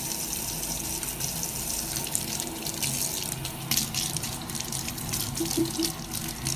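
Running water, steady with irregular splashing.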